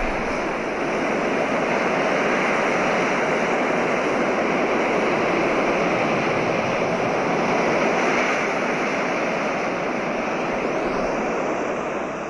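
Recording of ocean waves: a steady rush of surf that eases slightly toward the end.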